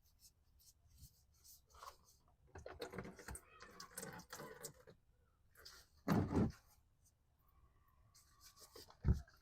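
Old spin-on oil filter being unscrewed by hand and pulled off an engine, with rubbing and scraping and a few small clicks. A dull thud comes about six seconds in and a short knock near the end.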